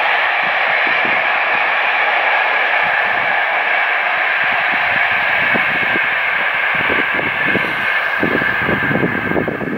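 Distant train running across open country, a steady rolling rush. Wind gusts buffet the microphone from about seven seconds in.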